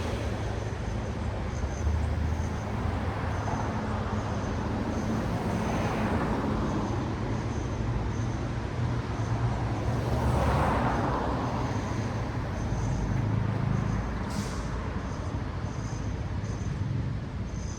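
Road traffic: cars passing one after another over a steady low engine rumble. Two pass-bys swell louder, about six and ten seconds in, and there is a short high hiss about fourteen seconds in.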